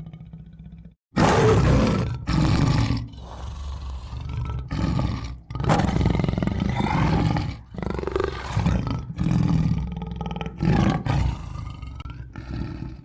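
Tiger roaring and growling: a series of loud, rough roars of varying length, starting after a short silence about a second in.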